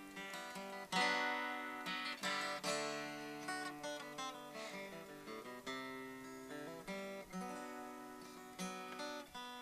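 Soft acoustic guitar playing: plucked notes and strummed chords that ring out and fade, with a firmer strum about a second in.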